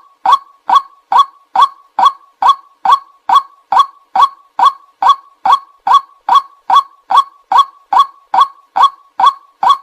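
White-breasted waterhen's short "kwak" call repeated over and over at a very even pace, about five calls every two seconds: a recorded call used as a lure for waterhens.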